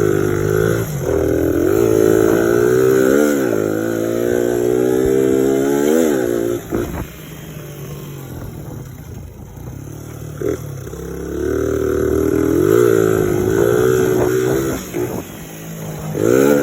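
1986 Suzuki DR100's small single-cylinder four-stroke engine being ridden hard: its pitch climbs, then drops suddenly at each gear change, twice in a row. It eases off to a lower, quieter running for a few seconds in the middle, then pulls up through the revs again, with a short rev near the end.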